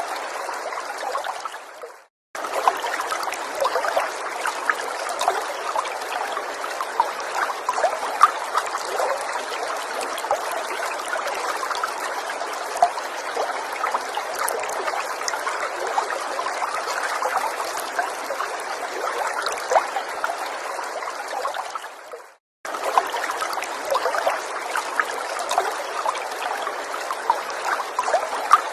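Small forest stream trickling steadily, a dense patter of small splashes. The water sound twice fades to silence and cuts back in abruptly, about two seconds in and again some twenty seconds later.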